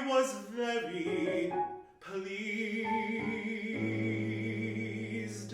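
Baritone singing with piano accompaniment: the closing phrase of an art song, ending on a long held note with vibrato over a low piano note that enters about two-thirds of the way through.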